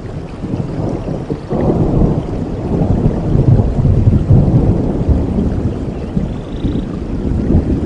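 Thunder rumbling over falling rain, swelling suddenly about a second and a half in and easing off near the end.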